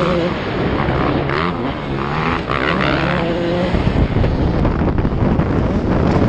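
Motocross bike engines running and revving, turning rougher and noisier from about four seconds in.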